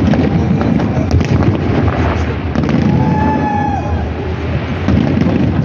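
Fireworks display: a continuous rumble of overlapping booms with sharp crackling bursts, and a brief high whistle about three seconds in.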